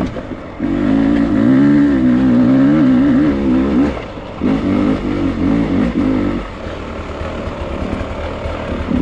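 Dirt bike engine under a rider's changing throttle, its pitch wavering up and down in bursts, with a short let-off about four seconds in and then quieter running from about six and a half seconds in.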